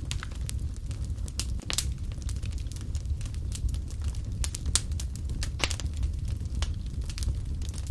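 Wood fire burning in a fireplace, with a steady low rumble and many irregular sharp crackles and pops.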